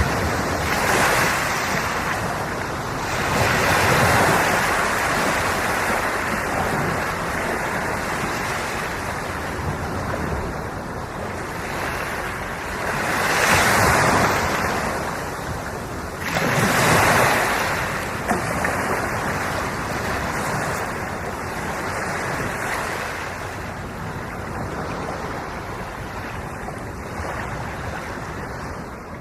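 Ocean waves washing in, the sound swelling with each surge, the biggest ones near the start and in the middle, then fading out right at the end.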